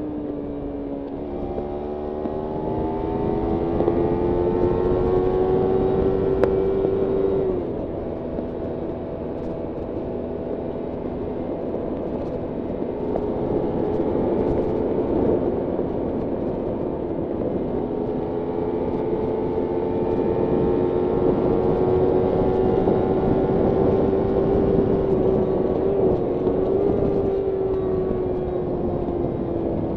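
Kawasaki Ninja 300's parallel-twin engine under way, its pitch climbing slowly for several seconds, dropping sharply about seven seconds in, then holding and climbing gradually again.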